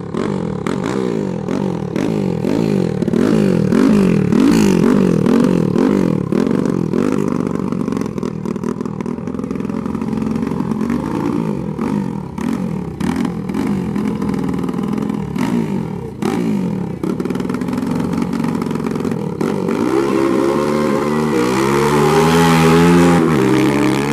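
Dirt-bike engines revving hard and accelerating, their pitch climbing and dropping again and again as they shift, with clattering clicks mixed in. Near the end a louder pitched note rises and falls.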